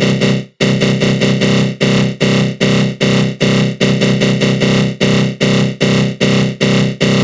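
Synthesized 'attack growl' sound effect: a GMS synthesizer tone run through a flanger, pulsing in short repeated hits about two and a half times a second, with a brief gap about half a second in.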